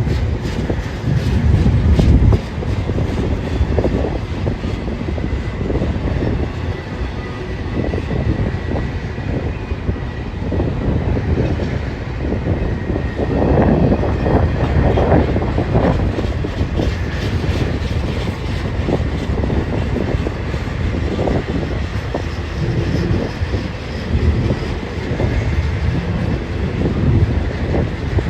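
BNSF freight train rolling past, cars running by with a steady low rumble and repeated clicking of wheels over the rail joints.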